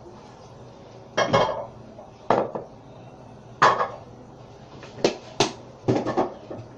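Hard ceramic clanks and knocks, about seven of them at uneven intervals: porcelain toilet parts, such as the tank and its lid, knocking together as they are handled.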